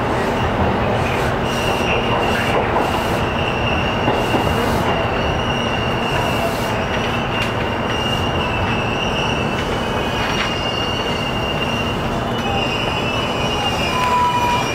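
Keihin-Tohoku Line commuter train (E233-1000 series electric multiple unit) running, heard from inside the car: a steady rumble of wheels on rail. A thin, high wheel squeal holds for most of the first ten seconds.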